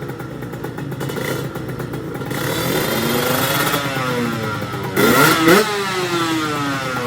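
Motorcycle engine revving up and down, with a sharp, loud rev about five seconds in, then the pitch dropping away. This is a drag bike being tested.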